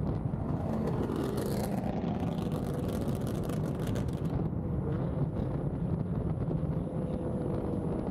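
Car engine running steadily with a low rumble, amid outdoor ambience.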